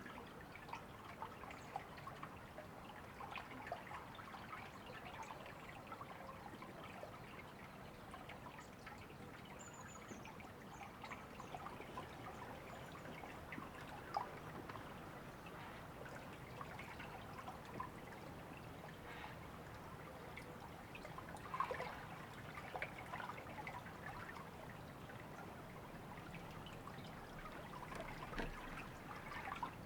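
River water trickling and babbling, full of small irregular splashes, with a brief faint high bird chirp about ten seconds in.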